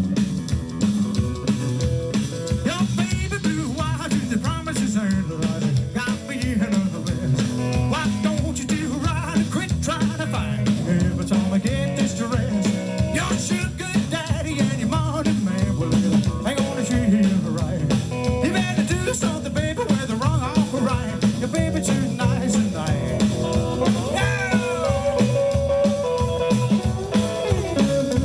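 Live band music from a guitar, double bass and drum kit, playing a rock and roll number with a steady beat.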